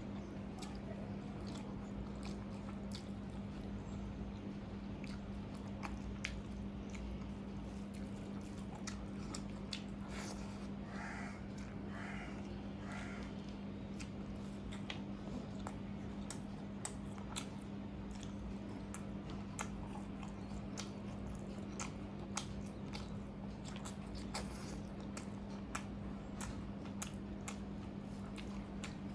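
Close-up mouth sounds of a person eating a curry and rice meal: wet clicks and smacks of chewing throughout, over a steady low hum. About eleven seconds in come three short calls, a second apart.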